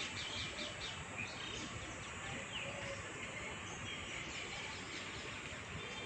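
Small birds chirping: a quick run of high chirps in the first second or so and one more a little later, over steady outdoor background noise.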